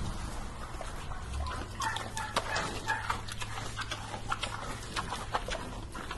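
An animal's short calls, about two to three seconds in, amid frequent sharp clicks, over a steady low hum.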